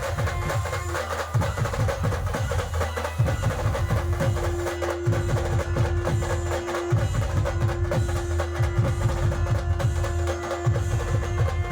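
Dhol-tasha band drumming a fast, dense beat, with deep drum strokes under rapid sharp hits. A long held note joins about four seconds in, breaks off briefly and comes back.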